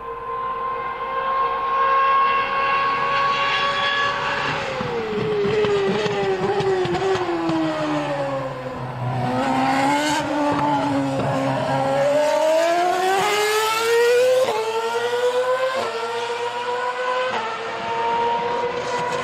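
Ferrari Formula One car engine held at high revs, then falling steadily in pitch as it slows, then climbing again under acceleration, with three quick upshifts near the end, each a sudden drop in pitch followed by another climb.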